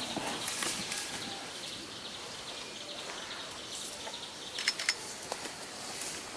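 Rainforest ambience: a steady high chorus of insects and birds, with a couple of short sharp chirps or clicks about three quarters of the way through.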